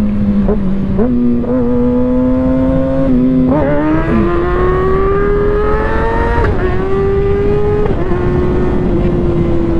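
Kawasaki Ninja ZX-6R's inline-four engine under way. Its pitch climbs steadily under throttle for a few seconds, drops at two upshifts, then holds at a steady cruise, with wind noise underneath.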